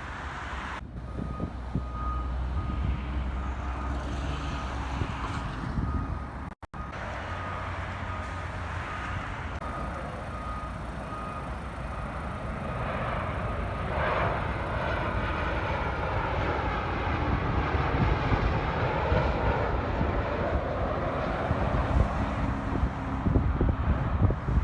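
Jet airliner engines growing louder on approach, their whine sliding down in pitch through the second half. Through the first part, a string of evenly spaced high beeps sounds over a steady rumble.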